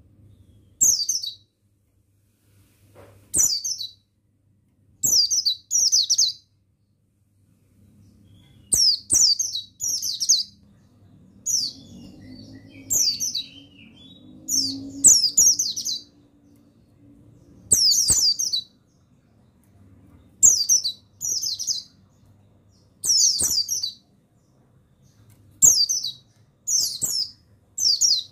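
Buxtoni white-eye (pleci) singing in short, high, rapid twittering phrases, each under a second long, repeated every one to three seconds over a faint low hum. This is a recording of the kind used to stimulate caged male white-eyes into song.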